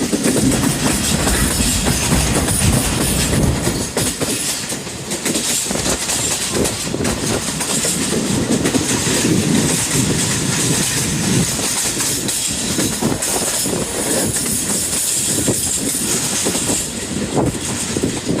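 Train running on rails: a steady rumble of wheels with rapid clickety-clack over the track.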